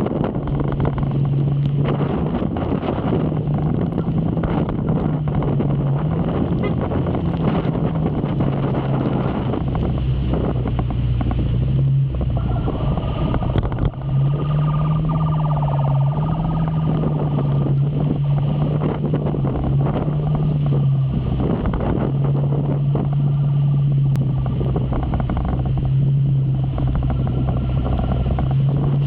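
Motorcycle engine running at road speed, its low tone shifting slightly up and down with the throttle, under heavy rushing wind noise on the microphone.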